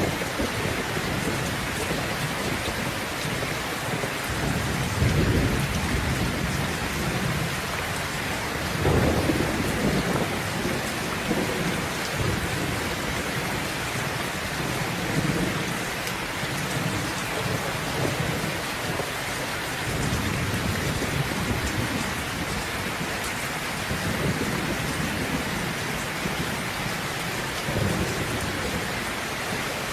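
Steady heavy rain with rolling thunder: low rumbles swell and fade several times, the strongest about five seconds and nine seconds in.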